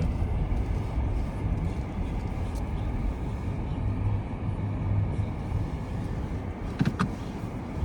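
Car driving, with a low steady rumble of engine and tyres, as it turns around. A short knock sounds about seven seconds in.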